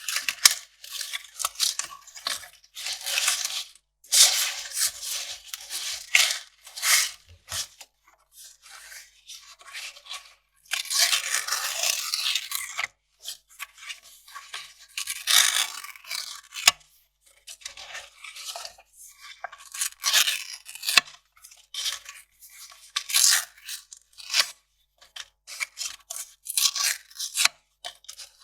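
Kraft paper being torn and crinkled by hand in many short, irregular, crisp strokes, with a longer tearing stretch about eleven seconds in.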